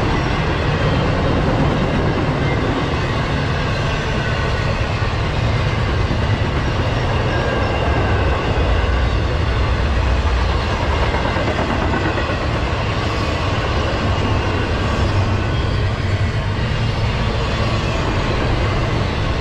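Intermodal freight train of double-stacked container well cars rolling steadily past: the steady low rumble and running noise of its wheels on the rails.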